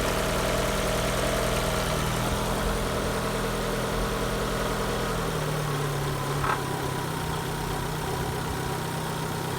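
Fiat Punto II 1.2-litre four-cylinder petrol engine (code 188A5000) idling steadily, its idle settling a little lower about five seconds in, with one short click a second or so later.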